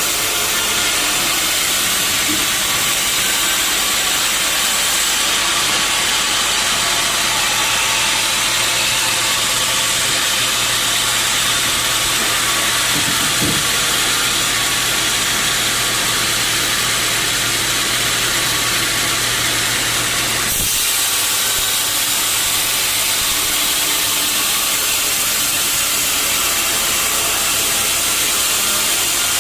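Sawmill saw cutting through a teak log: a loud, steady hiss over a low motor hum. The sound changes abruptly about twenty seconds in, where the hum drops out.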